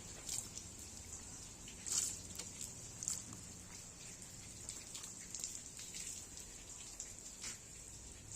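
Faint water dripping and splattering, irregular drops and small splashes with a steady high hiss behind them; the largest splashes come about two and three seconds in.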